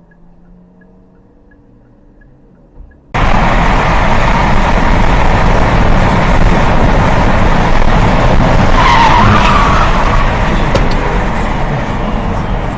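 Very loud, steady rushing vehicle noise that starts suddenly about three seconds in, with a brief wavering squeal about six seconds after it starts. Before it, only a faint hum.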